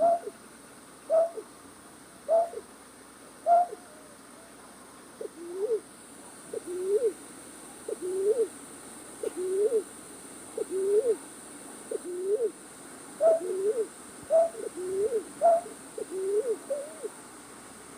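A recorded night-bird call used as a trapping lure: short hooting notes repeated about once a second. Higher, sharper notes come over the first four seconds and again about two-thirds through. Lower notes with an upward hook run through the rest.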